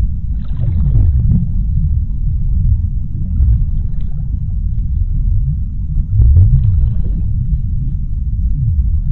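Deep underwater ocean ambience: a steady low rumble, with faint swells of higher hissing washing in about half a second in and again around six seconds.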